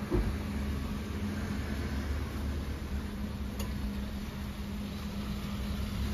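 Maruti Suzuki Ertiga's four-cylinder engine idling with a steady low drone. There is a short knock right at the start.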